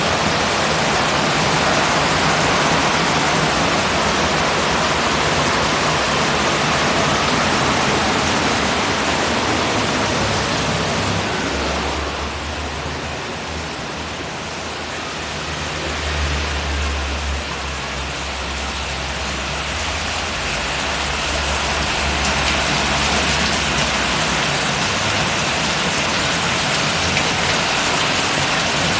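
Heavy rain falling, a dense steady hiss that eases a little around the middle and builds again, with a low rumble joining in while it is softer.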